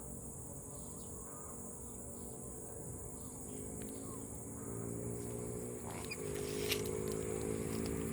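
Steady high-pitched drone of insects, with a low hum that grows louder from about halfway through and a single sharp click near the end.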